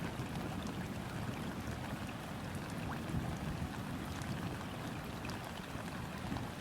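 Steady rain falling on a river's surface: an even hiss dotted with scattered close drop ticks, over a continuous low rumble.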